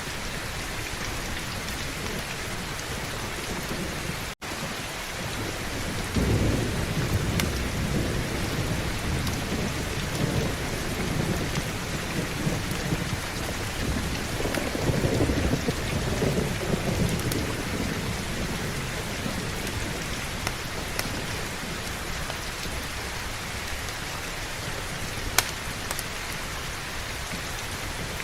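Heavy rain falling steadily, with thunder rolling low from about six seconds in for some ten seconds before fading. The sound cuts out for an instant about four seconds in, and a few sharp ticks stand out near the end.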